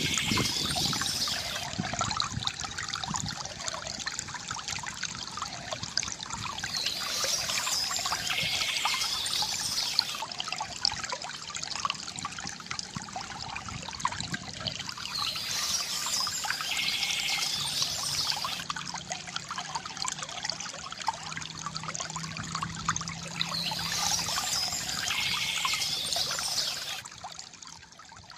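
Water trickling and gurgling steadily from a bamboo fountain, with a brighter high-pitched patch returning about every eight seconds. The sound fades down sharply near the end.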